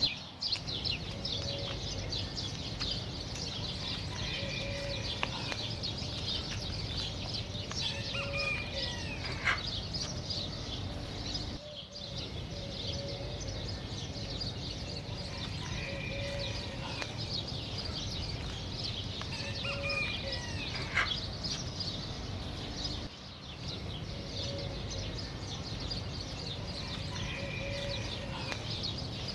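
A flock of small birds chirping densely and continuously. Short, repeated lower notes and a few longer sliding calls from other birds are mixed in.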